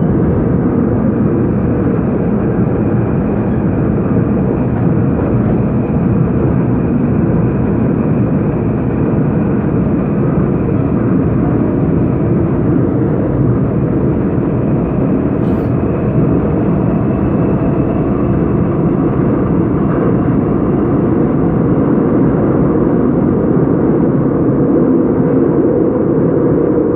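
Seoul Subway Line 5 train running steadily between stations: a continuous rumble of wheels and running gear, with a faint high whine above it. A single sharp click comes about halfway through.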